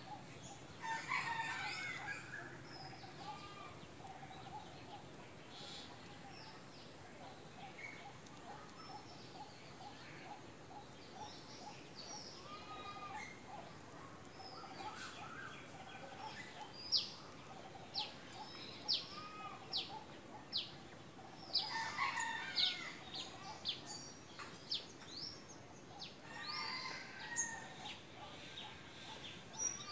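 Birds calling and chirping outdoors: scattered warbling calls, then a run of sharp, quick, high chirps in the second half, over a steady high-pitched hiss.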